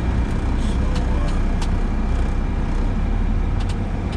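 Truck engine running steadily with road noise, a deep continuous rumble, with a few light clicks.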